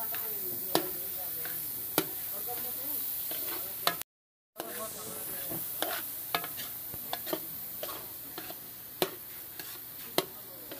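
Metal spatula stirring a large batch of raw red lentils frying in oil in a black wok: a steady sizzle and scrape, with sharp clanks each time the spatula strikes the pan. The sound cuts out for half a second about four seconds in.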